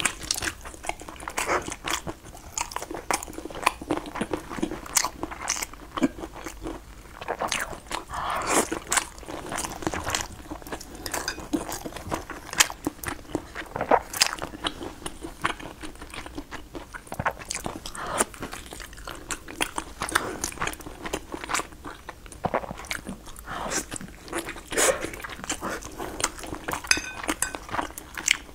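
Close-miked eating sounds of a person biting and chewing braised fat pork and other soft food, with many short mouth clicks and smacks.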